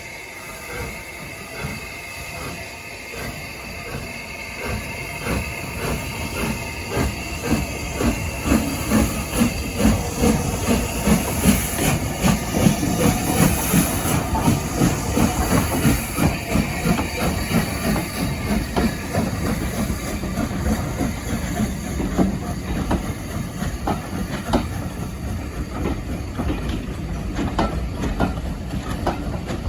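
Steam train on a heritage line, growing louder over the first dozen seconds with a fast rhythmic beating and a hiss of steam that peaks about halfway through. After that it carries on steadily with rail clatter.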